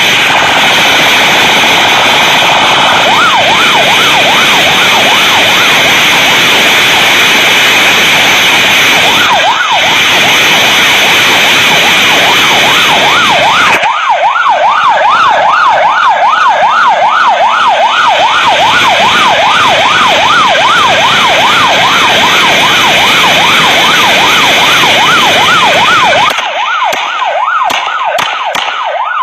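Police siren in a fast yelp, sweeping up and down about three times a second, over loud steady rushing vehicle and wind noise. Near the end the rushing noise drops and a few sharp clicks are heard.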